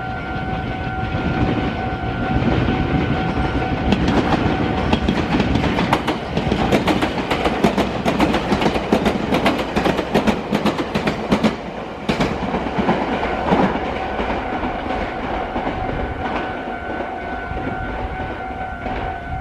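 A Meitetsu electric train passing close by with a rumble, its wheels clattering rapidly over rail joints and the junction's points for several seconds in the middle before easing off. A steady high tone sounds at the start and comes back in the second half.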